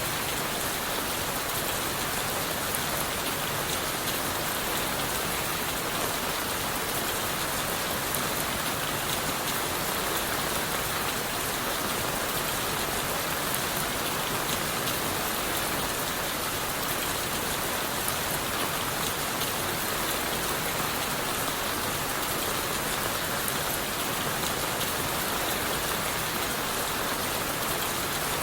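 Steady rain falling on leaves, wood and the forest floor: an even, unbroken hiss with a fine patter of individual drops.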